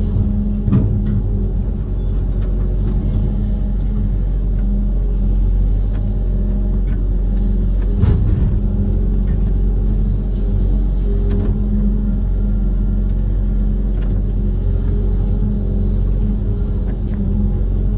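Diesel engine of a Kobelco SK130 amphibious excavator running steadily, a constant low rumble, with a couple of short knocks near the start and about eight seconds in.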